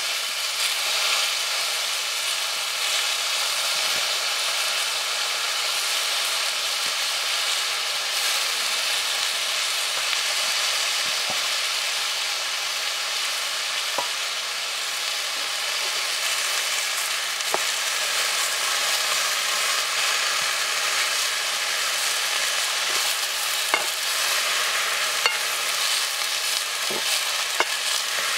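Leafy greens sizzling and steaming in a blackened pot over a wood fire, a steady hiss throughout, with a few faint sharp clicks in the second half.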